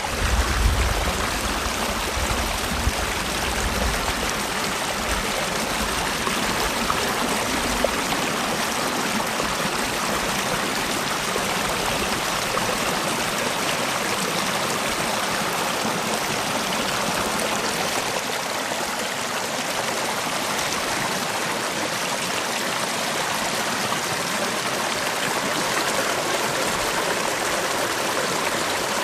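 Mountain valley stream rushing and splashing over rocks, a steady, even flow. A low rumble sits under it for the first few seconds.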